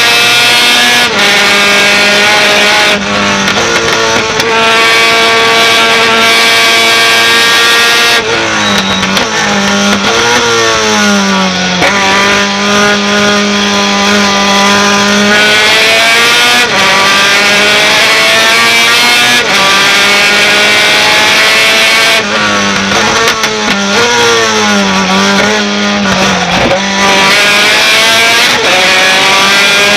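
Race pickup truck's engine at full throttle, climbing in pitch through the gears. Twice it drops sharply and blips as the truck brakes and downshifts for corners, then pulls hard again.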